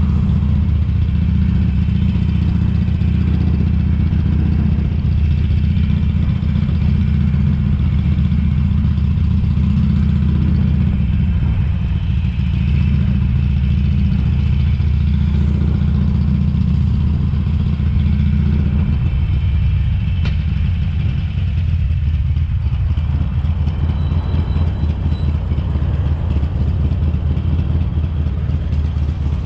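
2007 Harley-Davidson Sportster 883 Custom's air-cooled V-twin running at low town speed, a steady low engine note.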